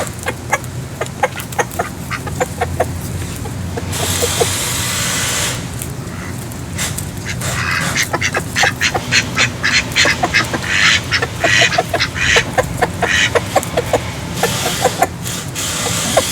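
Ducks quacking over and over in many short calls. There is a brief rushing noise about four seconds in.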